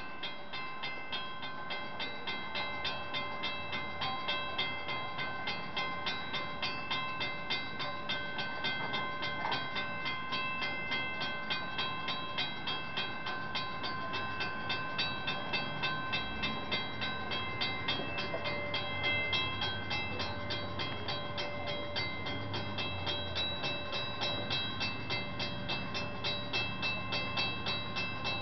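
A bell striking about twice a second, each stroke ringing on, as a line of steam locomotives approaches slowly. Their low rumble grows stronger in the second half.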